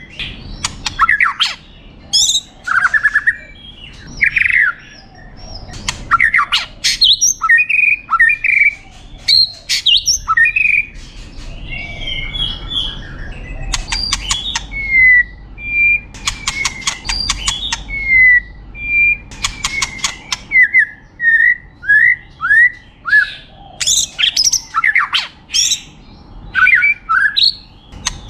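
White-rumped shama (murai batu) singing a long, varied song of clear whistles and slurred phrases, broken several times by rapid dry rattles.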